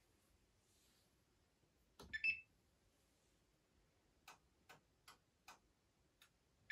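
Siemens iQ700 washing machine control panel: a short electronic beep about two seconds in, then a run of five faint clicks roughly half a second apart, and another beep at the end, as the program is set.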